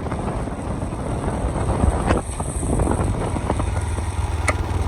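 Motorbike riding along, its engine and road noise a steady rumble, with wind buffeting the microphone.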